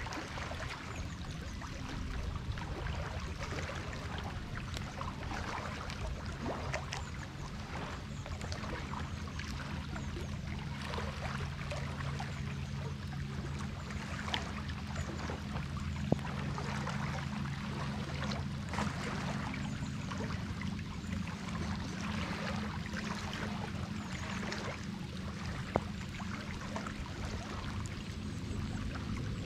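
Steady rain falling on water, with scattered drips and a steady low hum underneath. Two sharp clicks stand out, one about halfway through and one near the end.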